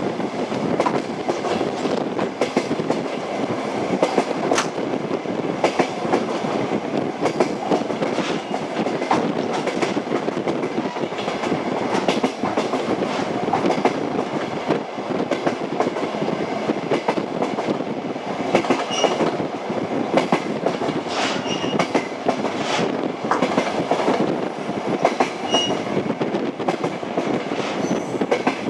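Train wheels clattering over rail joints at a steady running speed, with a continuous rumble, frequent sharp knocks and a few short high squeaks.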